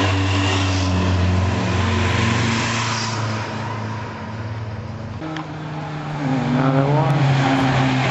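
Motorcycle engines running as bikes pass one after another. About five seconds in another bike's engine comes in, and its note rises as it accelerates near the end.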